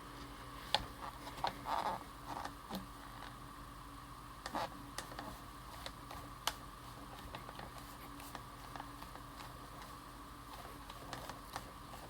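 Faint, scattered clicks and light taps of hands handling card stock and a stamping platform while re-stamping an inked rubber stamp, over a low steady background hum.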